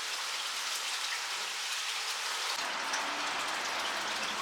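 Steady, even hiss of rain falling on a surface.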